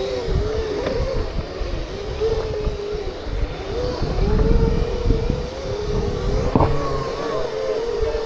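Segway's electric drive motor whining with a wavering tone that rises and falls with speed while it is ridden, over a low rumble.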